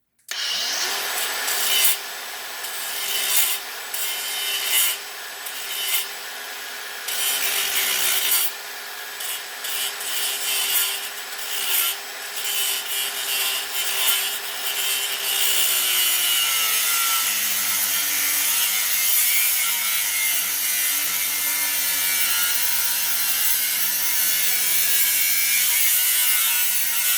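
Electric power tool cutting through the metal of a water heater valve fitting: a steady motor note under a harsh scraping, grating noise, with uneven contact early on. A bit over halfway through, the motor note drops lower as the cut loads it.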